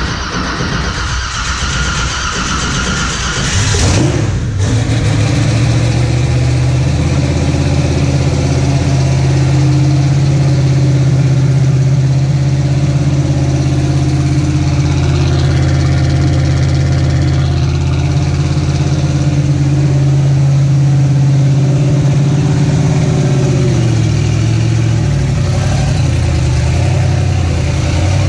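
Twin-turbo V8 of a Ford Cortina drag car starting up about four seconds in, then idling steadily, its note wavering near the end.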